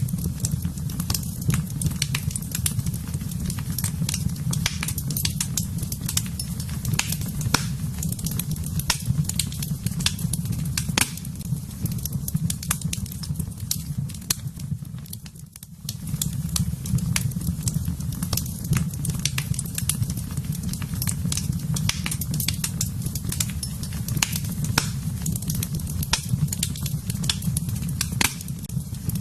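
Wood fire in a fireplace crackling, with many quick sharp pops and snaps over a steady low rumble of the flames. The sound dips briefly about halfway through, then carries on as before.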